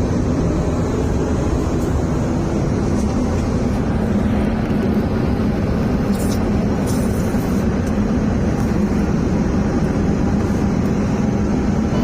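Airliner cabin noise in flight: a steady rushing of engines and airflow with a constant low hum.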